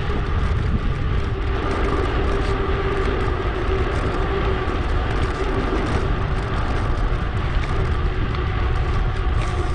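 Steady wind rush on an action camera's microphone, with the rolling noise of a mountain bike riding along, heaviest in the low end and unbroken throughout.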